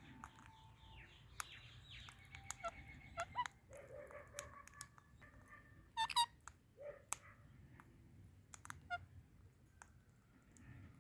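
Pet parrots calling and chattering in short chirps, with scattered sharp clicks. The loudest sound is a harsh call about six seconds in.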